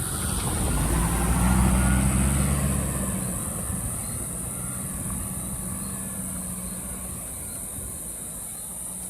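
A motor vehicle driving past close by, its engine hum loudest about two seconds in and then fading away as it moves off.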